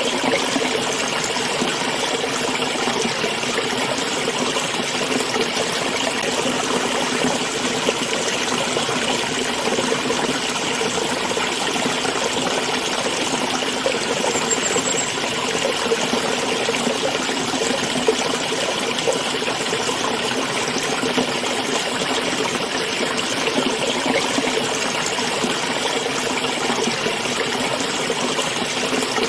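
A small stream running and trickling, as a steady, even burble.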